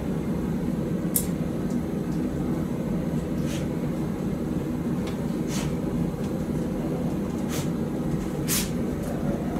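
Forge running with a steady rushing noise, with a few faint metallic clinks every second or two.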